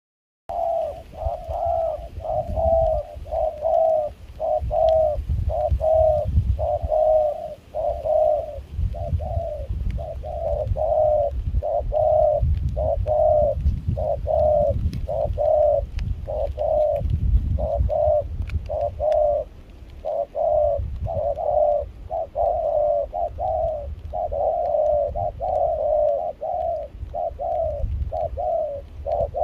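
Spotted dove cooing in a continuous run of rapid repeated coos, about two a second with only brief pauses. A low, uneven wind rumble sits beneath it.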